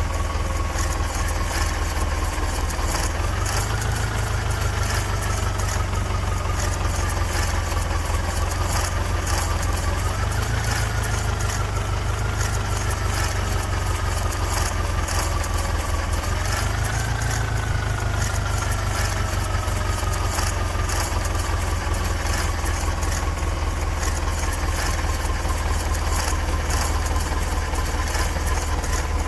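Diesel tractor engine running steadily under load. Every several seconds its pitch jumps up as it is throttled, then slowly sags.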